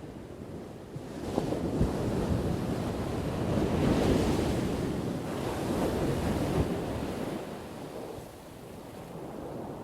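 Ocean waves crashing on a shore: a wave swells about a second in, breaks most loudly around four seconds, and washes back to a low rush after about seven seconds.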